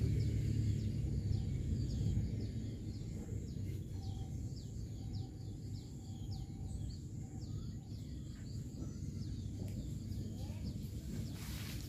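Birds calling in a quick run of short, high, falling chirps over a steady low rumble of outdoor background noise, with a brief rustling burst near the end.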